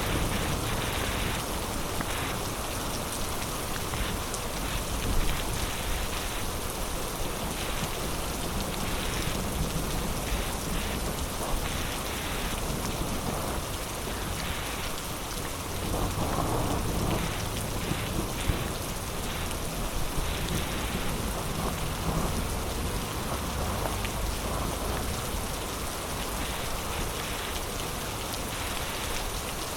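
Heavy rain falling steadily in a dense, even hiss, with a few sharper drop hits on a nearby surface. A short low rumble of thunder swells about halfway through.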